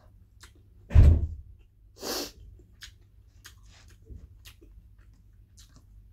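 Close-miked eating sounds: scattered small mouth clicks while chewing rice eaten by hand, a heavy thump about a second in, and a short hissing noise about a second later.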